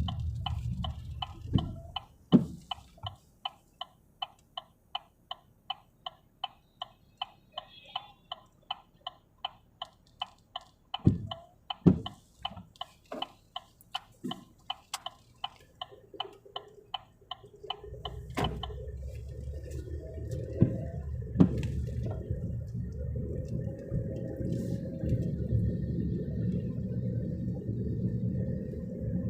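A car's turn-signal indicator clicking steadily, about two to three clicks a second, with a few dull thumps in between. About two-thirds of the way through the clicking stops and the low rumble of the car driving on takes over.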